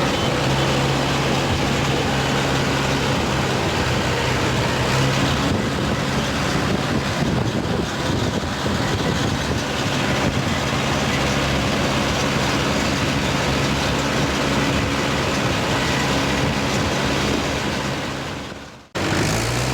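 Mahindra tractor's diesel engine running steadily under way, a continuous low drone with rattling noise; it fades out sharply and comes straight back near the end.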